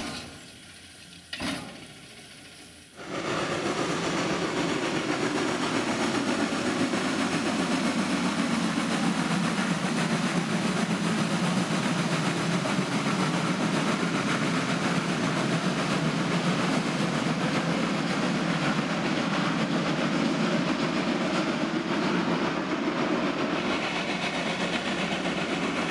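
Steam locomotive 95 027, a class 95 2-10-2 tank engine, working its train with a steady, dense rush of exhaust steam and running noise. It comes in suddenly about three seconds in.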